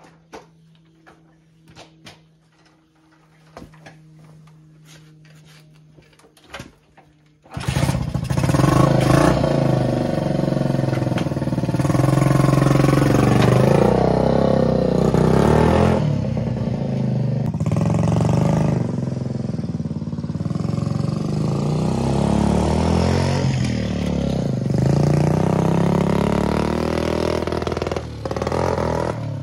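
1964 Honda 50 Super Cub's small single-cylinder four-stroke engine being ridden, revving up and down again and again, its pitch rising and falling. It cuts in suddenly about a quarter of the way in, after a quiet stretch with a few light clicks.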